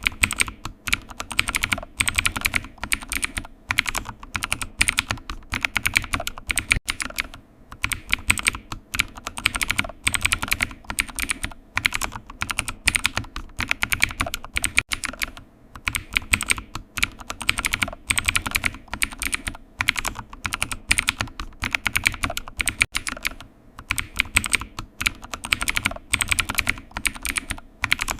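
Typing on a computer keyboard: runs of rapid keystrokes, broken every few seconds by brief pauses.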